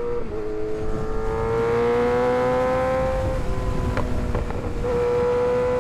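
Kawasaki ZX-6R 636's inline-four engine running under load while riding, its pitch climbing slowly for about three seconds, easing off, then climbing again near the end, over low wind rumble.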